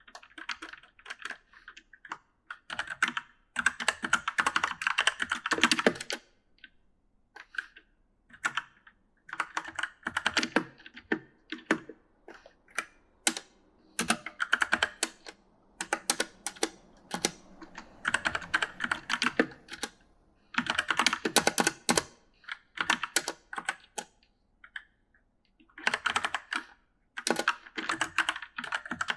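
Typing on a mechanical gaming keyboard: rapid runs of key clicks in bursts of a few seconds, broken by short pauses.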